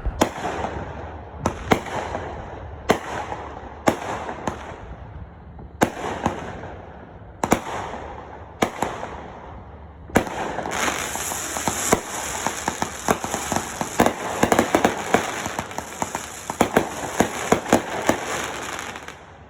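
Fireworks going off: single loud bangs about a second or so apart, each with a fading tail, then about halfway through a dense crackling barrage of rapid pops and hiss that runs on until just before the end.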